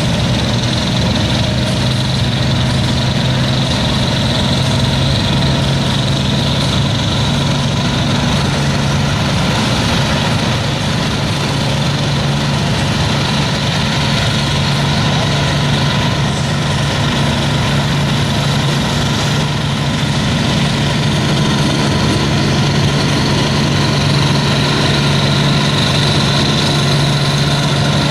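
Heavy tractor engine idling steadily, with a deep, even hum and no revving.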